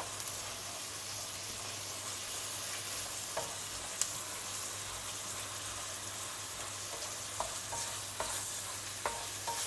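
Sliced chicken and onion sizzling in hot sesame oil in a frying pan, with a few sharp clicks of a utensil against the pan as the pieces are stirred and turned.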